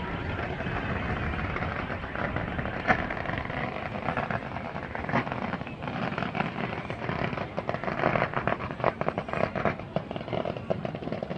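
Fireworks going off: a rapid crackle of many small sharp pops over a steady background rumble, thickening about halfway through.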